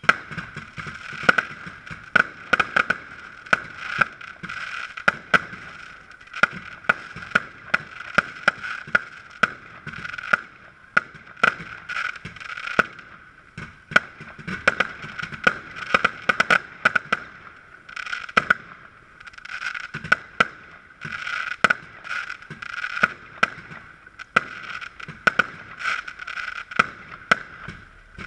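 Backyard fireworks going off: a rapid series of sharp bangs, about two a second, as shells launch and burst, over a continuous hiss of rising spark tails.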